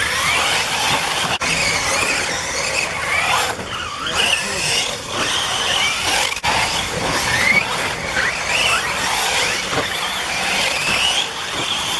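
Several off-road RC racing buggies running on the track, their motors whining high and constantly rising and falling in pitch as the drivers work the throttle and brakes.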